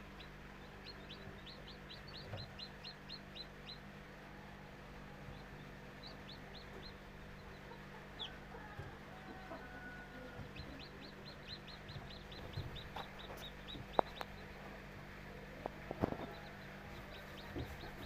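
Newly hatched chicks peeping: runs of short, high, evenly repeated peeps, about four a second, coming in three bursts, over a steady low hum. A few sharp taps come in near the end.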